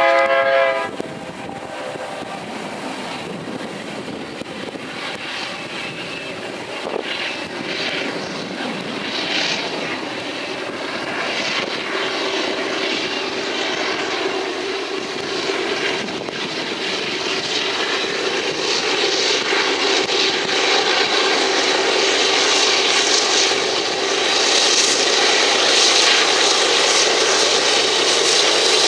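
A BNSF GE C44-9W diesel locomotive's horn blast ends about a second in. The locomotives' engines then grow steadily louder as they approach and pass, and empty covered hopper cars roll by on the rails.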